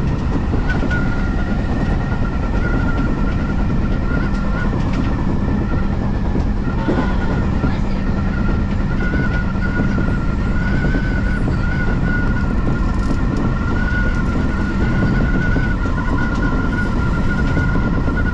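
Odakyu Line electric commuter train running at steady speed: a continuous rumble with a steady high-pitched whine that wavers slightly and fades out briefly in the middle.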